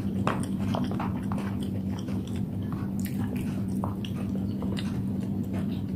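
Close-up chewing of a mouthful of spicy noodles: many short wet smacks and clicks. A steady low hum runs underneath.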